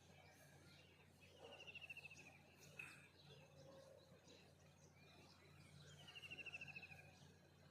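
Faint birdsong: one bird twice sings a rapid trill of repeated notes, each about a second long and falling slightly in pitch, with other birds chirping faintly around it.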